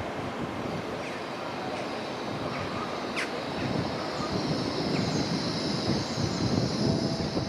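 Train running through a railway station, its rumble growing louder. A high steady squeal joins about halfway through.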